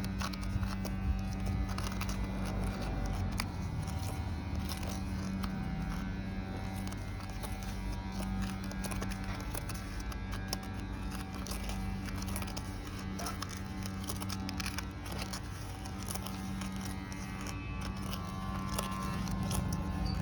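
A spoon stirring a wet mixture in a container, with many small irregular clicks and scrapes, over a steady low hum.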